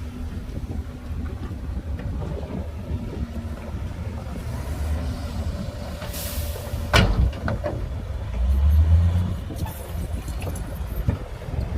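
Heavy diesel earthmoving machinery, a bulldozer and dump truck, running with a steady low rumble. About six seconds in comes a short hiss of air, then a sharp clank, and around eight to nine seconds the engine revs up briefly.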